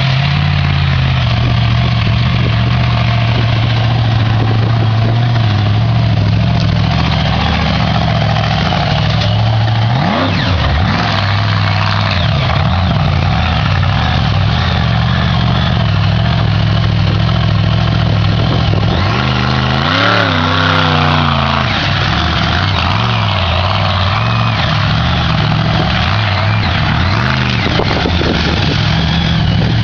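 Monster truck engine running loudly with a steady low drone, revved briefly about ten seconds in and again, rising and falling, about twenty seconds in.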